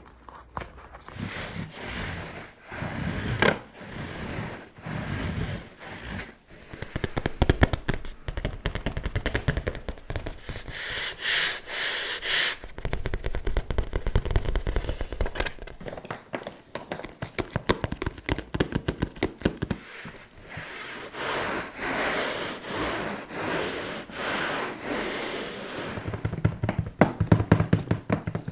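Fingers tapping quickly and irregularly on object surfaces, mixed with slow scratching, in close-miked ASMR style.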